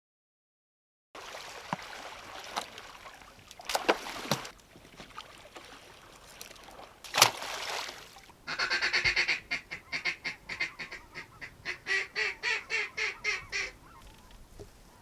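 A sharp crack about seven seconds in, then a fast run of about twenty quack-like duck calls, four or five a second, over some five seconds.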